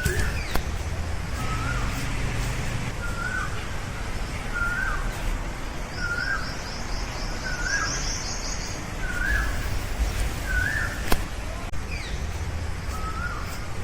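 A bird calling over and over, one short chirp about once a second, with a second, higher rapid trill in the middle, over a steady low rumble.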